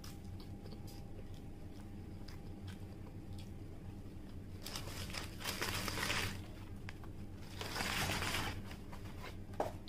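A person chewing a mouthful of burger, with faint small mouth clicks. About halfway through and again near the end come two bursts of rustling as a cardboard burger box is handled.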